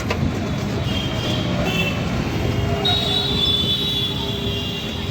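Steady road rumble of a moving rickshaw, joined about three seconds in by a high-pitched steady whine.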